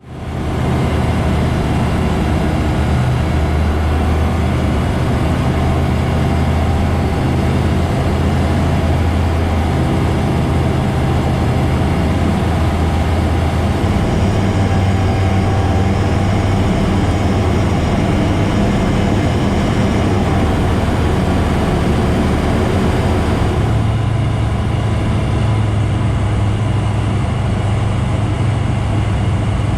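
Bristell light aircraft's engine running with airflow noise, a loud steady drone. Its low note shifts about 14 seconds in and again about 24 seconds in.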